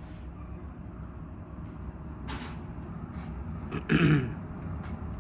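A person clears their throat or coughs once, sharply, about four seconds in, over a steady low background rumble; a shorter hissing sound comes a couple of seconds earlier.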